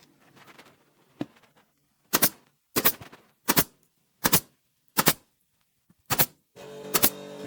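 Hammer blows in a woodworking build: seven sharp, doubled knocks a bit under a second apart, starting about two seconds in. Near the end a steady hum sets in under the last blow.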